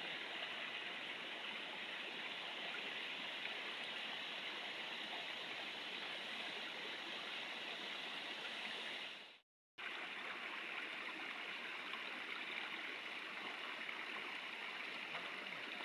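Steady rush of flowing stream water, cut off by a brief total silence about nine and a half seconds in before it resumes.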